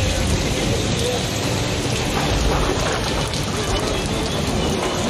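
Rain falling on a city street: a steady hiss with a low rumble underneath.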